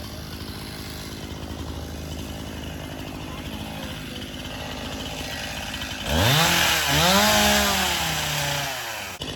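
Chainsaw running at idle, then revved hard about six seconds in for a cut of roughly three seconds, its pitch rising and falling, before dropping back near the end.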